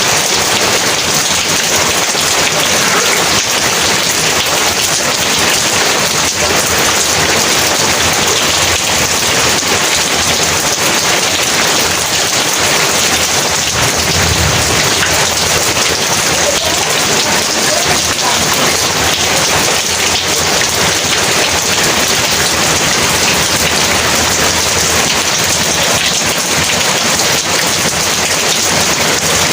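Heavy rain falling steadily and densely, with a low rumble of thunder about halfway through.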